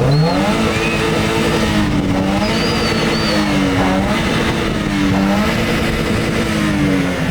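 A Subaru's engine is revved up sharply through its exhaust and held at high revs for several seconds, wavering slightly, before easing off at the very end. The car is being held at high rpm for a loudness reading in an exhaust competition.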